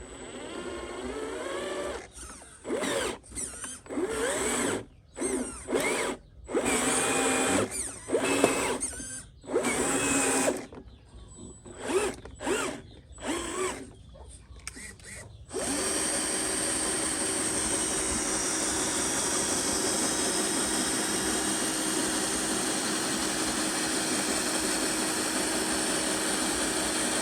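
Small electric motors and gearboxes of radio-controlled construction models whirring in short stop-start bursts, pitch rising and falling, then running steadily without a break from about halfway through.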